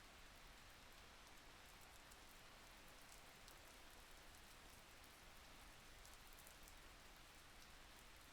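Faint, steady rain: an even hiss of falling rain with light droplet ticks scattered through it.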